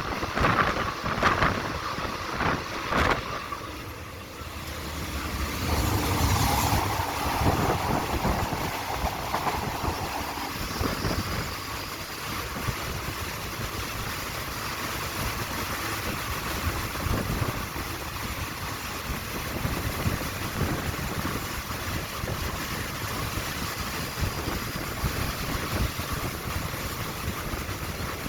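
Diesel-hauled passenger train running along the track with a steady rumble, a few sharp clacks in the first three seconds, louder about six seconds in, with wind on the microphone.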